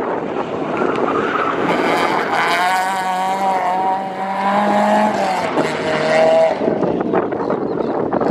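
Citroën Saxo rally car's four-cylinder engine running at high revs as the car corners past and pulls away, its pitch holding steady for a few seconds, with tyre and road noise under it.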